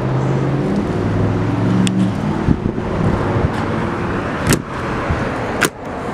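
Road traffic with a vehicle engine humming as it passes, fading after about three seconds. Three sharp clicks or knocks come about two, four and a half, and five and a half seconds in.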